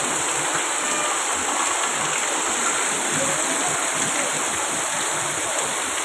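Torrential monsoon rain pouring down in a steady, dense hiss.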